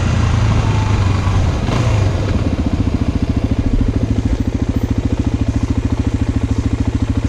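Motorcycle engine running as the bike slows to a stop, then settling about two and a half seconds in to an idle with an even beat of about ten pulses a second.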